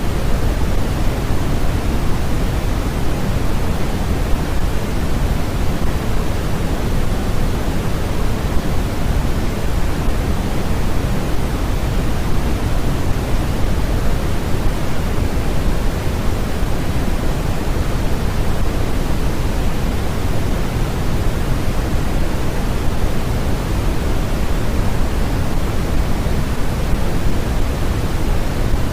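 Steady generated noise, unchanging, heavier in the bass than in the treble, like pink noise.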